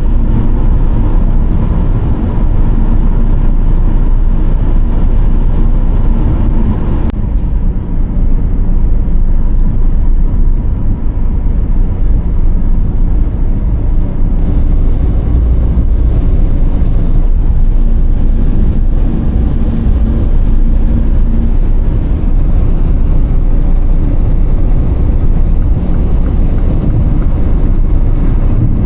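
Car driving at highway speed: steady, loud road, tyre and engine noise. A low steady hum sounds through the first seven seconds and again for a few seconds after the middle.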